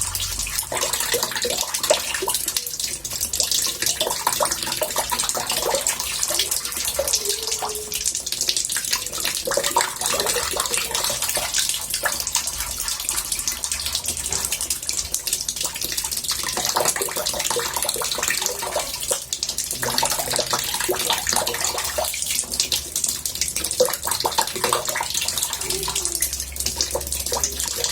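Water from a tap pouring steadily into a bathtub, a continuous splashing rush that stays even throughout.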